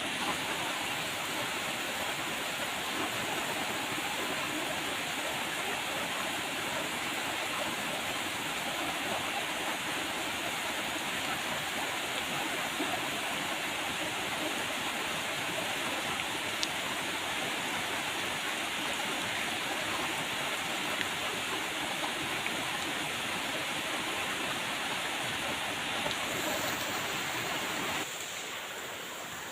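Steady rain falling, an even hiss of water that drops a little in level near the end.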